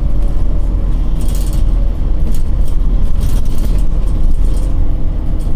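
Scania OmniCity city bus heard from inside the cabin: a steady low engine and road rumble, with a few short rattles or hisses over it.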